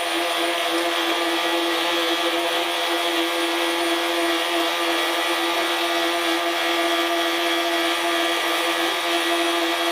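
A work boat's engine running at a constant speed, giving a steady pitched drone that does not change.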